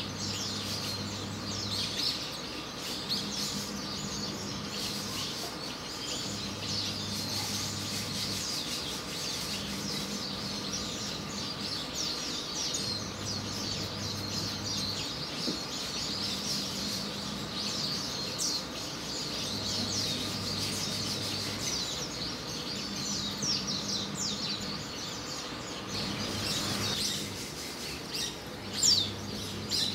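Japanese white-eyes calling: a steady stream of short, high, thin chirps, many overlapping.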